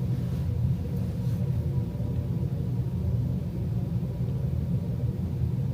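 Steady low rumble of background noise with a faint constant hum, and no distinct event in it.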